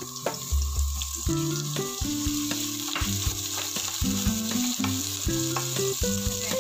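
Mushrooms and minced garlic sizzling in hot oil in a frying pan, with a wooden spatula scraping and tapping as they are pushed in and stirred. Soft background music plays underneath.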